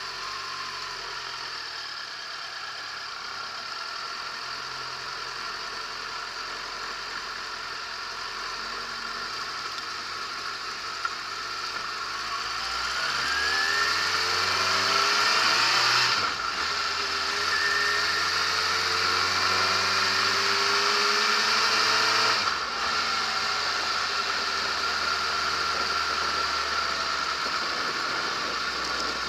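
Yamaha XJ6S's 600 cc inline-four engine idling, then pulling away and climbing in pitch as it accelerates. The note breaks briefly at two upshifts about six seconds apart, then holds steady at cruising speed, with wind rushing over the bike.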